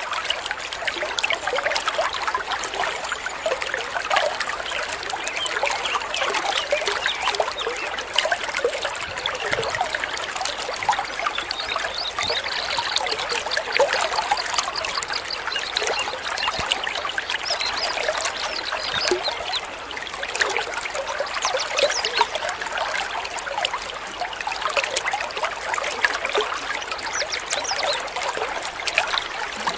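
Water trickling and babbling steadily, a dense run of small splashes.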